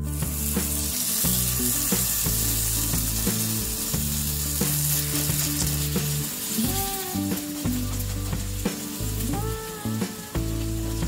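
Potato batter sizzling in hot oil in a non-stick frying pan, starting sharply as the ladleful goes in and going on steadily while it is spread out with the back of a steel ladle.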